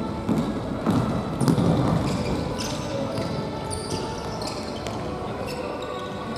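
Futsal play on an indoor gym court: low thuds of the ball and footsteps, then from about two and a half seconds in a run of short high-pitched squeaks from shoes on the court floor.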